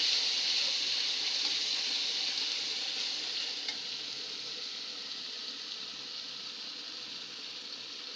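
Spiced onion paste frying in oil in a steel pan, sizzling as it is stirred with a steel spatula; the sizzle slowly dies down.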